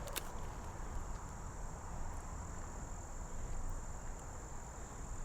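Insects trilling in one unbroken high-pitched note, with a low rumble underneath and a single sharp click just after the start.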